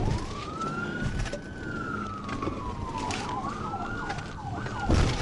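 Police patrol car siren wailing in slow rising and falling sweeps, with a few quicker falling sweeps in the second half, over engine and road noise. A loud knock comes near the end.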